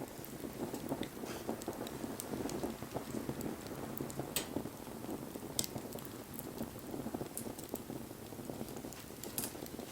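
Wood fire burning with a dense, steady crackle and scattered sharp pops, the loudest about four and a half seconds in, about five and a half seconds in, and near the end.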